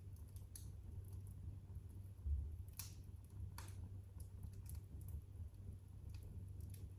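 Wood fire crackling in a fireplace: sparse, irregular pops and snaps over a low steady rumble.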